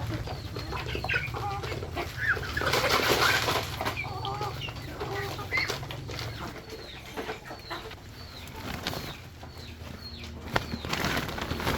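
Chickens clucking and other birds calling, with a loud flurry a few seconds in and a run of short, high chirps repeating through the second half.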